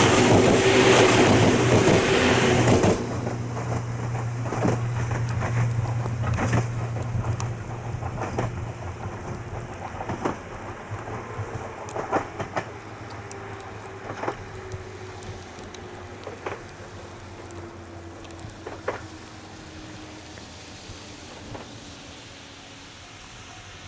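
Ohmi Railway electric train passing close, then going away: a loud rush for about three seconds stops sharply, leaving a fading rumble with a slowly falling whine and scattered wheel clacks over rail joints. Steady rain falls throughout.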